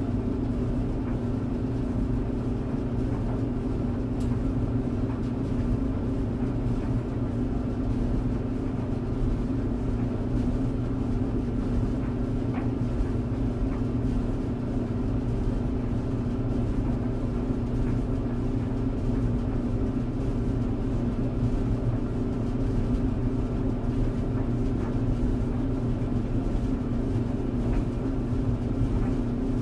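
Tumble dryer running, a steady hum with a constant low rumble and an occasional faint tick.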